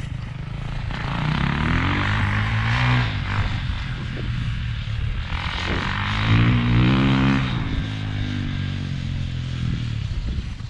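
Kawasaki KX450 dirt bike's single-cylinder four-stroke engine revving, its pitch climbing and then falling twice. It is loudest about six to seven seconds in.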